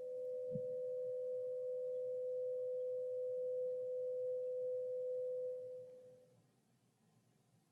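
A single pure, steady ringing tone from a sound-healing instrument. It fades away about six seconds in.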